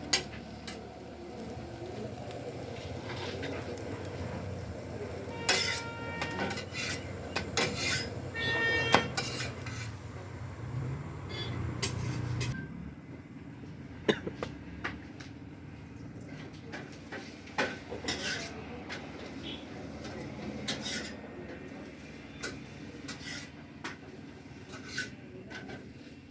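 Metal dishes and utensils clinking and clattering, several strikes ringing briefly. A steady low hum underneath stops suddenly about halfway through, leaving only sparse clinks.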